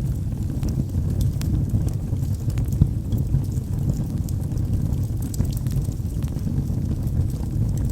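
Wood fire burning in a fireplace: a steady low rumble of flames with scattered small crackles and pops from the logs.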